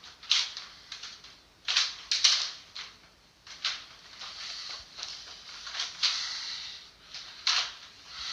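Irregular scuffing and rustling noises in a thin, low-fidelity recording, heard as a person walking and moving about. The strongest scuffs come about two seconds in and near the end.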